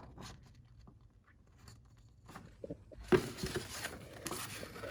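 Paper sheets being handled and shuffled: a few faint taps at first, then a louder rustle and scrape of paper from about three seconds in.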